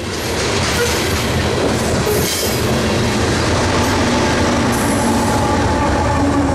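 Freight train passing close by: covered hopper cars rolling over the rails, then the rear distributed-power GE AC4400CW diesel locomotive going by with its engine running, the sound loud and steady throughout.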